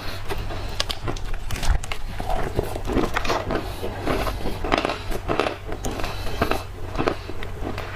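Close-up biting and chewing of dry black clay: irregular crisp crunches and crackles, several a second.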